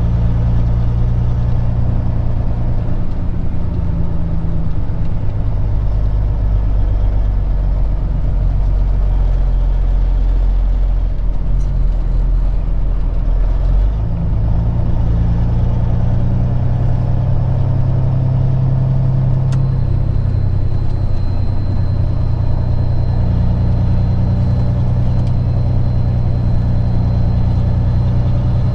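Peterbilt 379 semi truck's diesel engine running at low speed, heard from inside the cab, its pitch shifting a couple of times as the truck slows and maneuvers. A faint steady high tone comes in about two-thirds of the way through.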